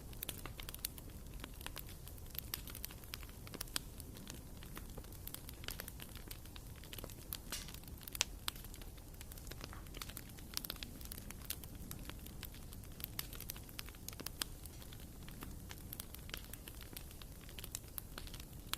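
Wood fire burning in a fireplace, with many small irregular crackles and pops over a low, steady rumble.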